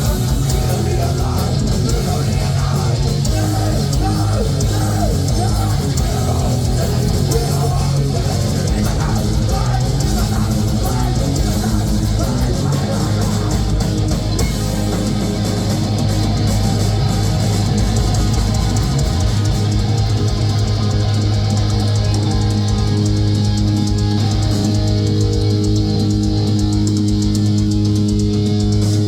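Heavy metal band playing live: distorted electric guitars, bass and drum kit, with fast-picked riffing that settles into more sustained chords late on.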